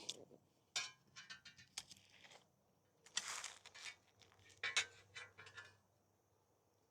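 Faint, scattered clicks and short scraping rustles of hand work with tools, with a longer scraping burst a few seconds in.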